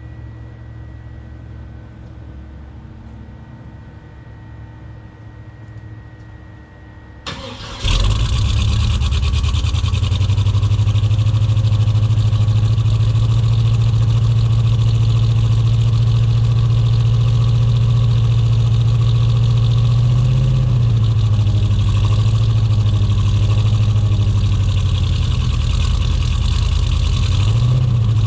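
Small-block 350 V8 in a Chevrolet S10 being cold-started: the starter cranks for about seven seconds, then the engine catches with a sudden jump in loudness and settles into a loud, slightly rough idle, its pitch wavering a couple of times; rough because the engine is not yet fully tuned.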